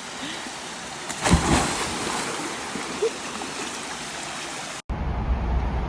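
Creek water rushing steadily, with a brief splash about a second and a half in. Near the end it cuts abruptly to a low steady rumble.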